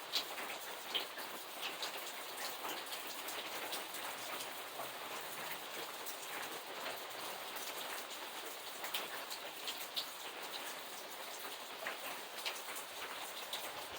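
Steady rain falling, with individual drops now and then ticking sharply close by.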